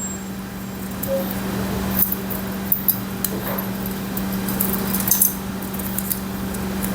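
Light metallic clicks and rattles of engine parts being handled as the cylinder base gasket is fitted onto the crankcase, over a steady low hum.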